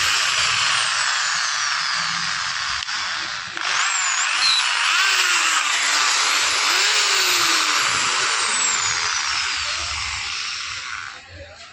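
13 mm electric drill running in two long runs, with a brief break about three and a half seconds in, then stopping near the end.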